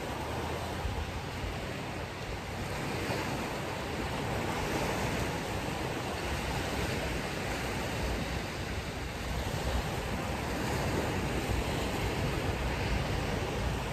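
Ocean surf washing steadily on the shore, a continuous rush of breaking waves that swells and eases slightly.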